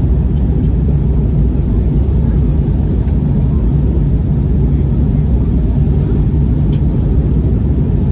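Steady low drone inside the cabin of an Airbus A321neo in its climb after takeoff: the Pratt & Whitney geared turbofans and airflow, with a low hum and a few faint ticks.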